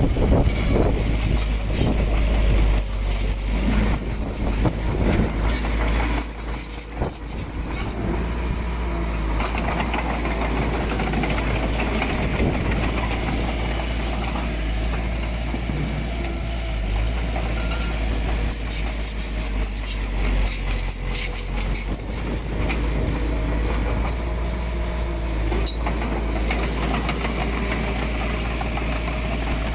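Diesel engines of a bulldozer and dump truck running under work, a steady low rumble. Bouts of metallic clanking and squeaking come in the first several seconds and again about two-thirds of the way through.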